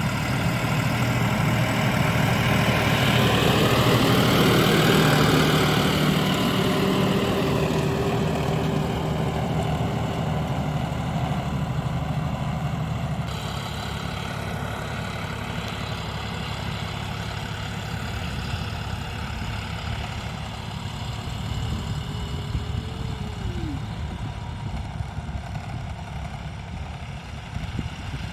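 John Deere 5405 CRDi tractor's common-rail diesel engine running steadily. It grows louder to about five seconds in, then eases off, with an abrupt change about halfway through.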